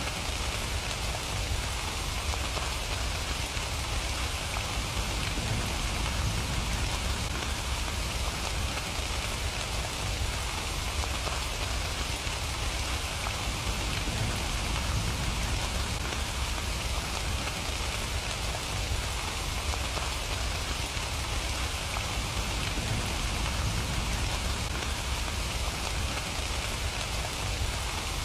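Steady rain falling: an even, unbroken hiss of drops with a low rumble underneath.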